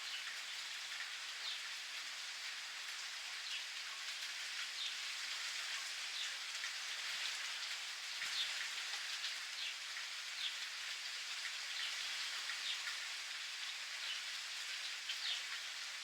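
Steady rain falling, with many individual raindrops pattering on surfaces.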